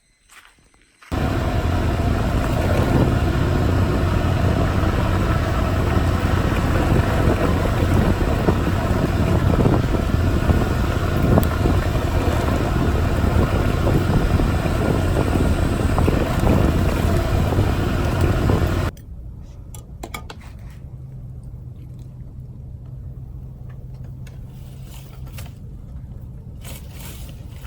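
Small moped engine running while riding, loud and steady, cutting in suddenly about a second in. About nineteen seconds in it drops abruptly to a much quieter, steady low hum.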